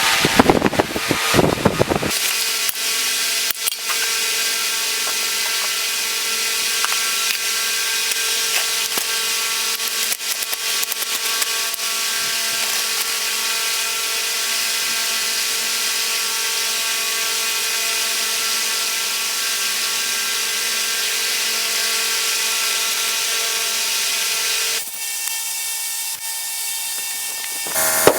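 A power tool running steadily, a high hiss over a steady hum, rougher and louder for the first couple of seconds. About three seconds before the end the hum falls away and the hiss goes on thinner.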